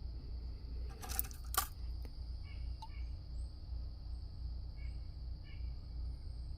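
Two sharp clicks about a second in, a split second apart: tumbled chert stones knocking together in the hand. Faint chirping insects and a steady low hum sit under them.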